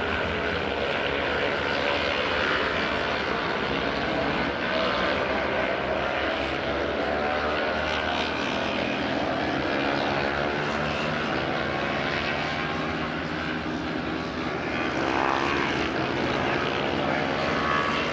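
Racing motorcycle engines heard from a distance across the circuit: a continuous drone of several bikes' engines whose pitch rises and falls as they rev through the gears and pass.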